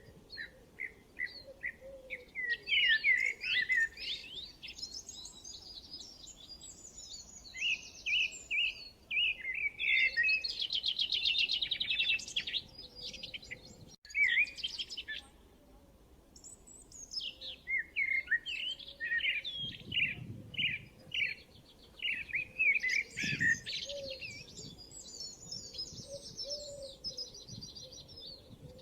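Songbirds chirping and singing in repeated bouts of short whistled notes and rapid trills, with a brief break about halfway through.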